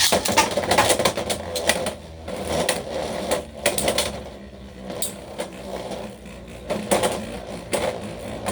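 Two Beyblade spinning tops whirring against each other, with repeated sharp clacks as they collide.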